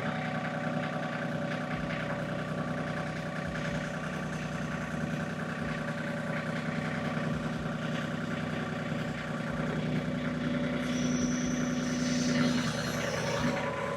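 LS MT226 compact tractor's diesel engine running steadily at about 1,200 rpm while the front loader lifts a pallet load of about 1,558 pounds. The engine note grows a little louder about ten seconds in, then eases back near the end.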